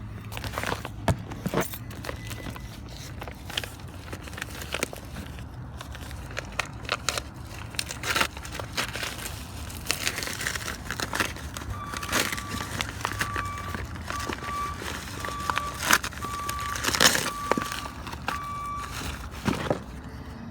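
A package being unwrapped by hand: crinkling and rustling of packaging with scattered sharp clicks and knocks. Through the second half a short high electronic beep repeats at an even pace for several seconds.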